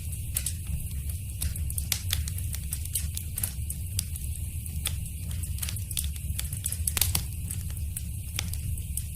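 Wood fire crackling in a fireplace: irregular sharp pops and snaps over a steady low rumble and hiss, with a louder pop about seven seconds in.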